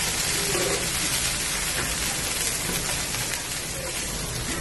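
Chopped onions and spring onions sizzling steadily in hot oil in a pan, stirred with a wooden spatula.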